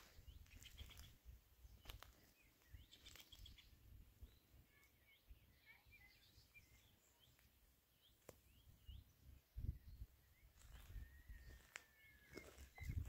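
Near silence with faint, scattered bird chirps, a few soft clicks and a low rumble of background noise.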